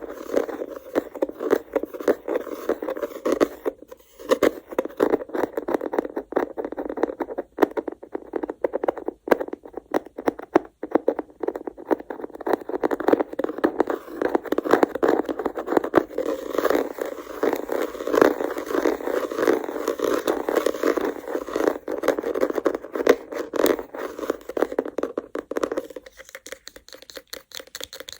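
Go (baduk) stones clattering and scraping against one another in a dense run of rapid clicks, thinning to lighter, sparser clicks about two seconds before the end.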